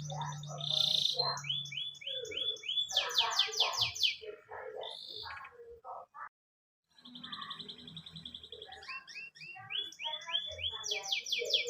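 Domestic canary singing: fast runs of repeated chirps and rolling trills. The song cuts out completely for about a second, six seconds in, then resumes.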